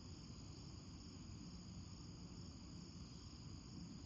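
Faint, steady chirring of crickets, a continuous high-pitched trill from the nature-sounds background.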